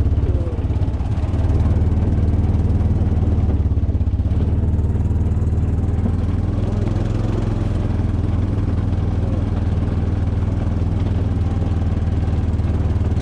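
Motorbike engine running at a steady speed during a ride, a constant low hum.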